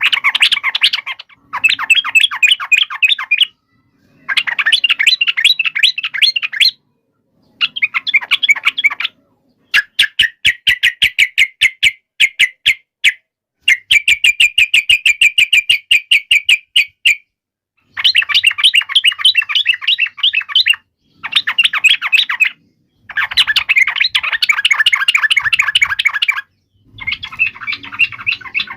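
Yellow-vented bulbul (trucuk) chattering in loud bursts of rapid, sharp notes, each burst lasting a few seconds with short silent gaps between them; this is the bird's agitated fighting call. About ten seconds in, one stretch breaks into evenly spaced separate notes before the dense chatter resumes.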